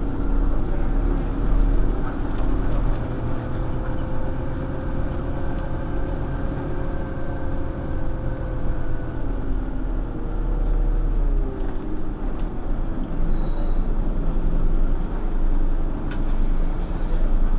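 Scania OmniCity single-deck bus under way, heard from inside the saloon: steady engine and drivetrain rumble with a whining tone that slides lower about two-thirds of the way through as the bus slows. A few sharp rattling ticks come near the end.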